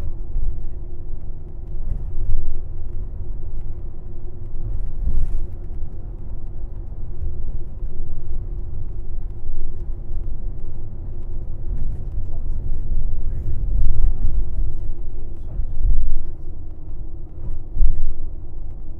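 Airport limousine coach heard from inside the passenger cabin while driving: a steady low rumble of engine and road noise with a constant drone underneath, rising and falling a little in loudness.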